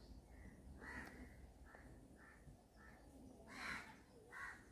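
Faint bird calls in the background: a string of short calls, about one every half second to second, over quiet ambience.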